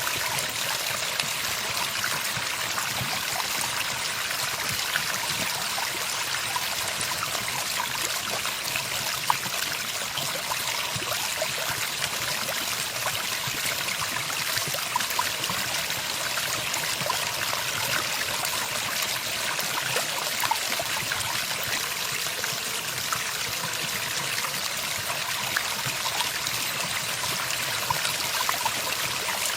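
Running water trickling and splashing steadily, like a small stream, with no birdsong over it.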